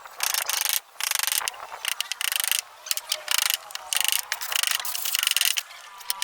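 A hand tool working wood in repeated, irregular scraping strokes, about one or two a second, each lasting a fraction of a second.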